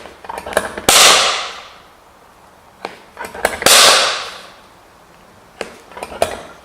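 A centre punch struck with a hammer on sheet metal to mark hole centres: light clicks as the punch point is set on each mark, then a sharp ringing hammer blow, three times about three seconds apart, with a fourth blow at the very end.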